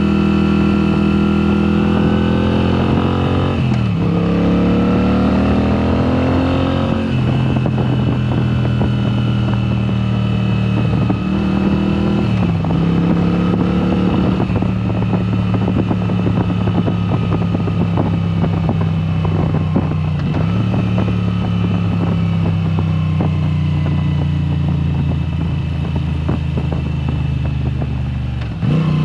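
2022 Moto Guzzi V7 Special's air-cooled transverse V-twin running loud through a Mistral exhaust with its dB killers removed, pulling up through the gears. The engine pitch climbs and drops sharply at upshifts about 4 and 7 seconds in, then holds a steady cruise with brief dips around 12 and 20 seconds in.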